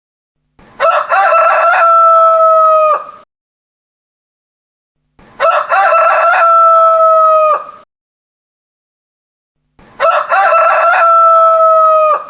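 Rooster crowing three times, about every four and a half seconds, each crow identical: a short broken opening, then a long held note that falls off at the end, with silence between crows.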